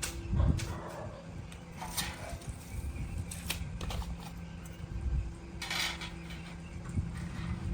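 Scattered metal clinks and knocks, a few seconds apart, over a low steady hum.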